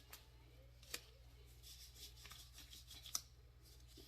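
Gloves being pulled on: faint rustling with two sharp clicks, about a second in and again near three seconds, over a low steady hum.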